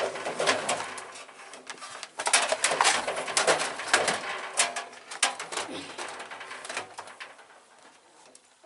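A rapid series of clicks, knocks and clattering as a box fan is handled and turned around, dying away near the end.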